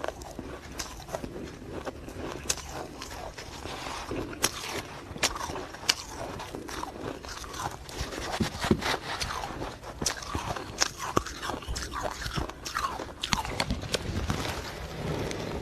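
Close-up crunching of ice being bitten and chewed: many sharp, irregular cracks as the cubes break between the teeth.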